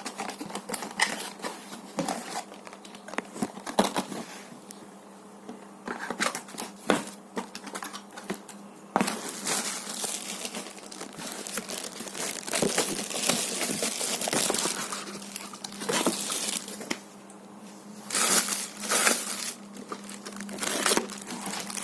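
Packaging being handled while unboxing: plastic and paper crinkling and rustling, with some tearing and sharp clicks in irregular bursts.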